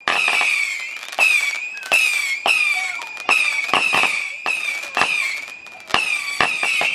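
A firework barrage cake firing a rapid volley of shots, about a dozen sharp bangs, each followed by a falling whistle, with a steady high whistle running under them.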